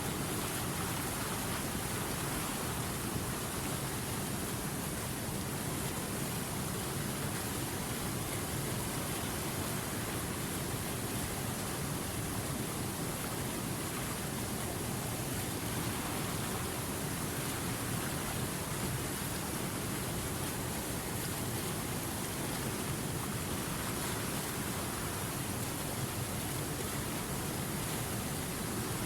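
Running river water, a steady, even rush with no separate splashes or changes.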